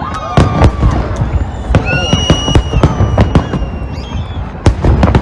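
Fireworks display: a dense run of sharp bangs and crackles, with whistling shells, one of them holding a high whistle for about a second around two seconds in.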